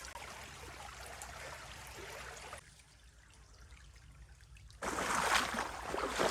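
Water trickling and running through a breached beaver dam in a drainage canal. It turns suddenly quieter for about two seconds in the middle, then comes back louder near the end.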